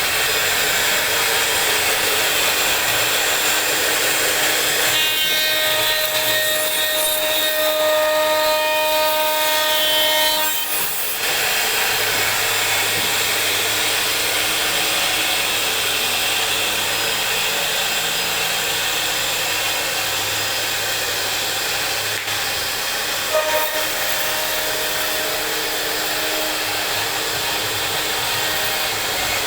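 CNC router spindle cutting wood, a loud steady hiss and whine. From about five to eleven seconds in, a clear pitched whine with overtones stands out over it, and a brief tone sounds again about twenty-three seconds in.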